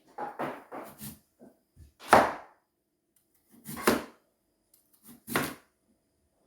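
Large kitchen knife chopping sweet potato on a cutting board: a few light knocks, then three heavy chops about a second and a half apart.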